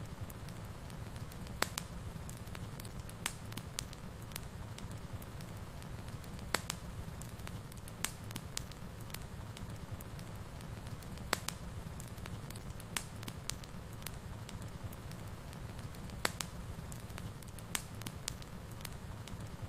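Wood fire burning in a fireplace: a steady low rumble of the flames with sharp, irregular crackles and pops every second or so.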